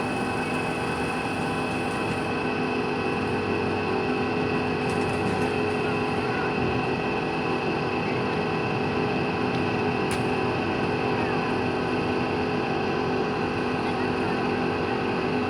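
A motor on a boat ride running with a steady, unbroken drone. About ten seconds in there is one sharp click.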